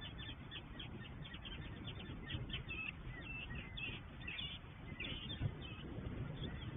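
A flock of birds calling over the water. At first there are many short, high calls in quick succession, several a second; later come fewer, longer calls. A steady low rumble lies underneath.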